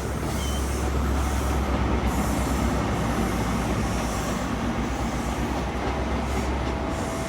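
Diesel engines of a CrossCountry High Speed Train's Class 43 power cars running with a steady low drone as the train stands at or leaves the platform.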